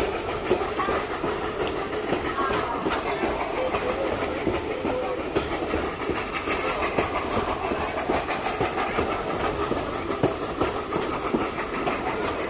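Steam excursion train hauled by locomotive 3716, heard from a passenger car as it runs steadily, with a continuous clatter of wheels over the rails.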